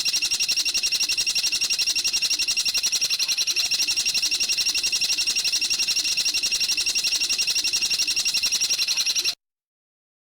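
A recorded songbird trill used as masteran training song: a fast, even string of high, sharp notes, about eight a second, held without a break, then cutting off abruptly near the end.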